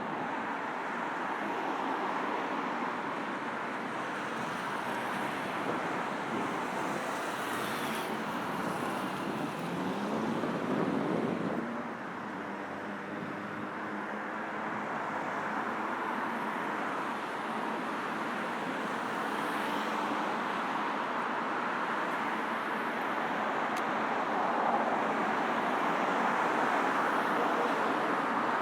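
Steady road traffic passing on a busy multi-lane road. About ten seconds in, one vehicle's engine note rises as it accelerates past.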